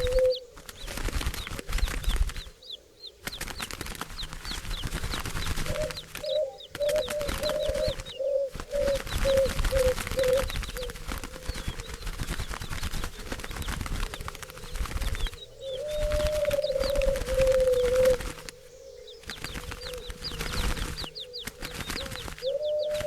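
A flock of doves with wings flapping in a dense, continuous flutter. A low, wavering purring call comes and goes several times, and short high chirps run over the top.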